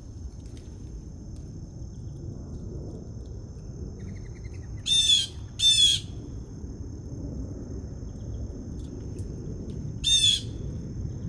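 Bird giving three short, harsh calls, two close together about five seconds in and one more near the end, over a steady high thin tone and low background rumble.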